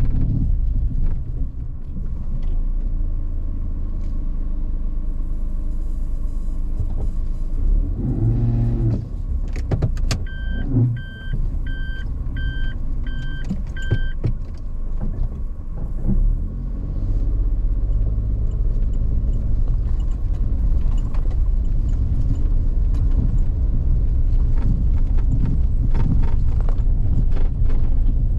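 A car driving, heard as a steady low rumble with scattered ticks and knocks. About a third of the way through comes a run of six short, evenly spaced electronic beeps.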